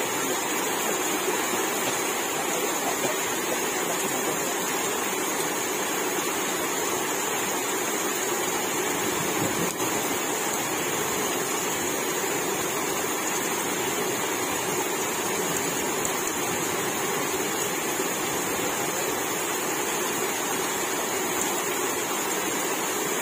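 Steady rushing of a small stream swollen and overflowing with rainwater, fast-flowing floodwater running at full spate.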